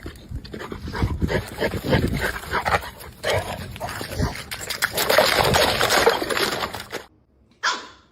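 A dog's noises mixed with scuffling and clicking, busy for about seven seconds, then cutting off suddenly; a single short sound follows near the end.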